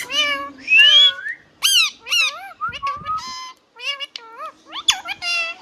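Indian ringneck parrot giving a rapid series of short chirps, squawks and whistles, with a rising whistle about a second in and a briefly held steady note near the middle.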